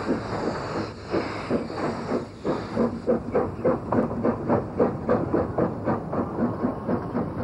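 Narrow-gauge steam locomotive working a train: a hiss of steam, then from about three seconds in a regular run of exhaust beats, about three a second.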